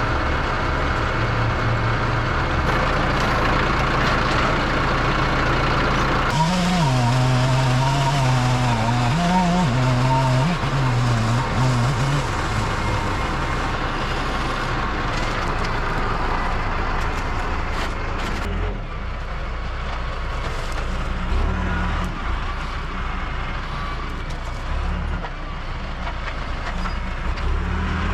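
Tractor engine running under load while dragging a large oak log, its note wavering and shifting for several seconds about a quarter of the way in, then settling lower.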